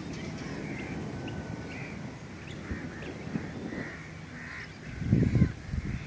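Birds calling, a string of short calls one after another, over a low rumble of wind on the microphone that swells about five seconds in.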